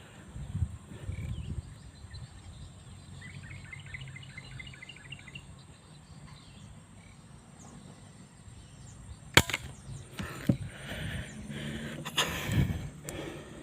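Strong wind rumbling on the microphone, with a bird's quick run of repeated high notes about three seconds in. About nine seconds in there is one sharp click, followed by a few knocks and handling noises.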